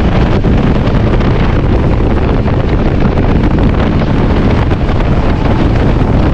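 Loud wind rushing over the microphone with the steady rumble of a moving express passenger train running at speed.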